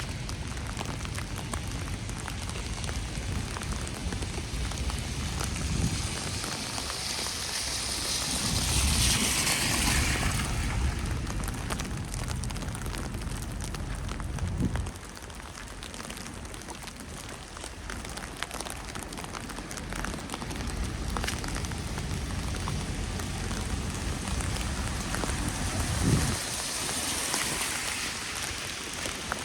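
Steady patter of falling wet snow. About a third of the way in a vehicle passes on the wet road, its tyre hiss swelling and falling in pitch.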